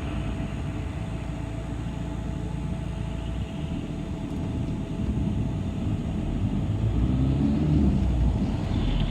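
City bus running, its engine and road rumble heard from inside the passenger cabin, with a faint steady whine above it; the rumble grows louder from about five seconds in.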